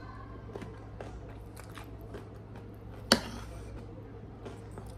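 Close-up chewing of food, with small scattered mouth clicks, and one sharp clink of a metal fork against a plate about three seconds in.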